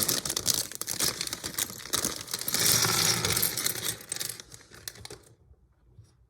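Plastic Lego parts bags crinkling and being torn open, a dense crackle that dies away about four and a half seconds in.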